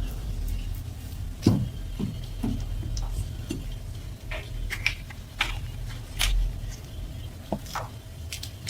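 Small hard parts handled on a workbench: a dozen or so scattered light clicks, taps and clinks over a steady low hum.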